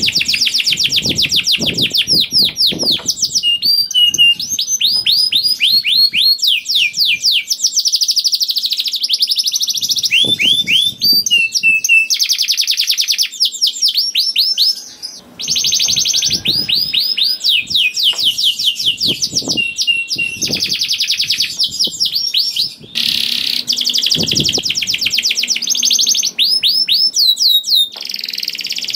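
Domestic canary singing a long, near-unbroken song of fast trills, each made of rapidly repeated falling notes, shifting from one trill to the next with only a couple of brief pauses, about halfway through and again a few seconds later.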